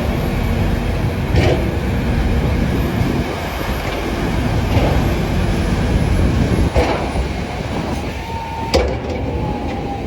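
Heavy vehicle running with a steady low rumble, broken by a few clanks or knocks spread through it, and a faint thin whine near the end.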